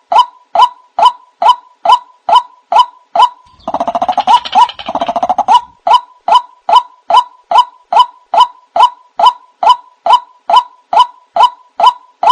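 White-breasted waterhen (ruak-ruak) lure call: short, loud notes repeat evenly about twice a second. A few seconds in they give way to a longer, busier stretch of calling for about two seconds, then the even series resumes.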